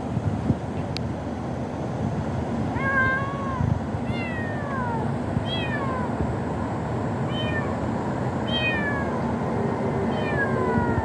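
Kitten meowing: about six short, high-pitched meows, mostly falling in pitch, repeated every second or two from about three seconds in.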